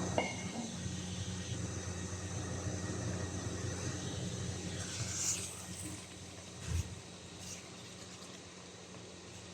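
Steady low hum with background noise, a short hiss about five seconds in and a single knock a little before seven seconds, after which it is slightly quieter.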